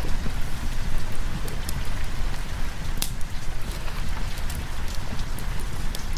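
Steady heavy rain with a deep low rumble underneath and scattered sharp clicks, one louder about halfway through.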